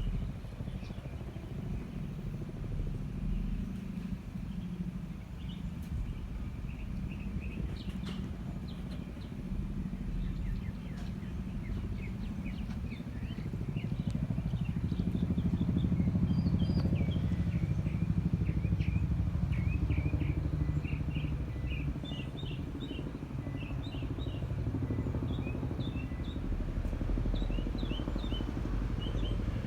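Tandem-rotor Chinook helicopter flying past: a low, pulsing rotor rumble that builds to its loudest about halfway through, then eases off. Birds chirp over it.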